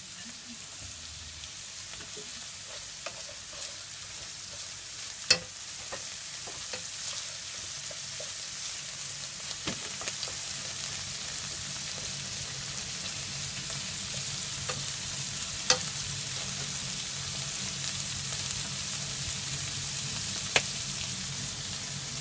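Bean sprouts sizzling in sesame oil in a frying pan, a steady hiss that grows gradually louder, with about four sharp clicks spread through it.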